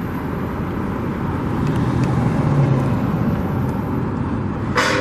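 Road traffic: a motor vehicle passing by, its engine hum and tyre noise swelling about two to three seconds in, with a short rush of noise at the end.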